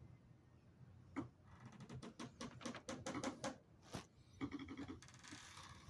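A quick run of small, close clicks and scratches, then a brief rougher rustle near the end: handling noise at close range.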